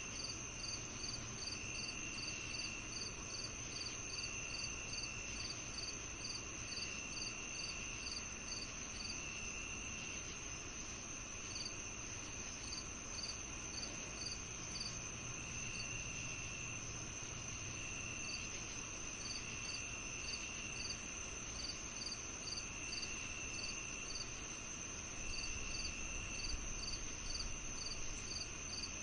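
Chorus of crickets and other insects: a continuous high trill, a steady run of short chirps about two or three a second, and a lower trill about a second long repeating every couple of seconds.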